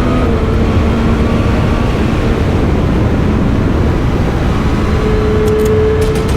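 Triumph Street Triple 765 RS inline three-cylinder engine on its stock exhaust, running at a nearly steady engine speed while riding, over wind and road noise. The note dips slightly just after the start and climbs slowly near the end.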